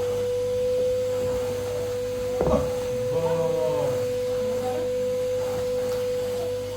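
A steady, unbroken single-pitch tone, with a short knock about two and a half seconds in and faint voices just after.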